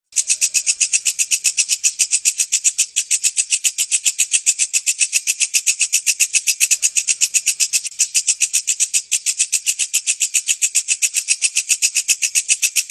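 Walang kecek katydid stridulating: a fast, even train of high, dry chirps, about eight or nine a second.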